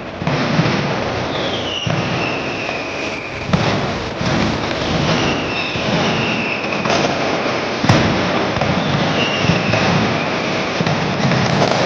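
Street fireworks and bangers going off continuously: a dense crackle with sharp bangs, the loudest about eight seconds in, and short high whistles that fall in pitch every couple of seconds.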